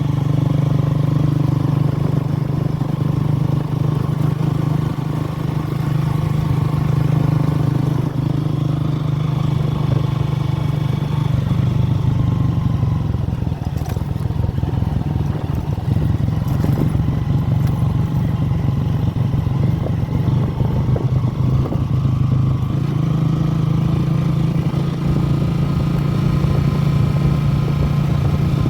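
A motor vehicle's engine running steadily, its pitch drifting slightly now and then.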